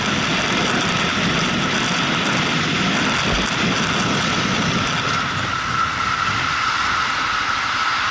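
Motorcycle under way: steady wind and road rush over the engine, with a steady whine running through it. The low rumble eases after about five seconds.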